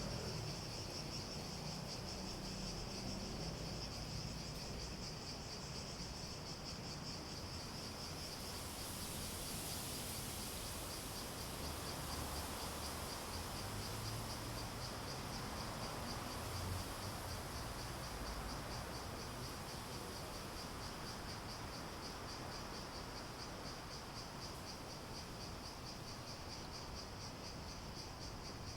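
Cicadas chorusing: a steady, rapidly pulsing buzz, with a higher hiss joining about eight seconds in and fading out later.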